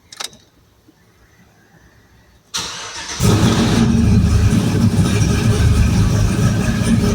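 A cammed Chevy truck engine cranks briefly on the starter, catches about three seconds in, and settles into a loud, choppy idle. The lope comes from its aggressive camshaft.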